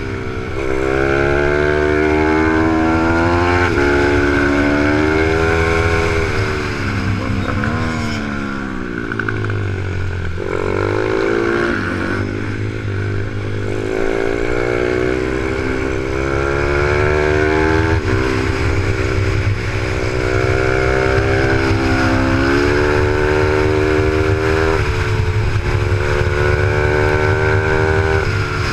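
Z155 pit bike's single-cylinder four-stroke engine heard onboard while racing. It revs up repeatedly, climbing in pitch through the gears, then drops back off the throttle for corners, with a longer lull about halfway through before it pulls hard again.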